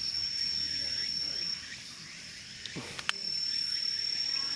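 An insect trilling: one steady high-pitched note that stops about a second and a half in and starts again about three seconds in. A couple of faint clicks fall just before it resumes.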